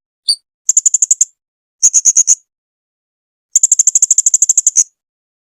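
Blue-crowned hanging parrot (serindit) calling: one short high note, then three bursts of rapid, very high chips at about a dozen a second. The last burst is the longest, over a second.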